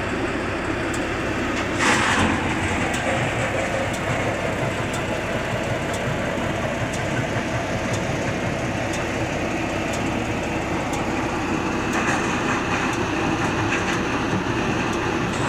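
Stone crusher running steadily, breaking rock into gravel, with a short louder burst of noise about two seconds in.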